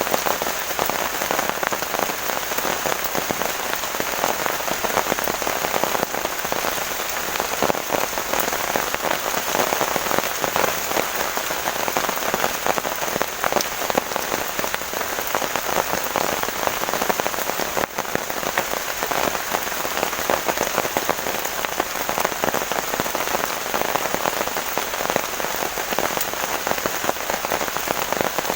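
Heavy rain pouring steadily, a dense patter of drops hitting surfaces close by.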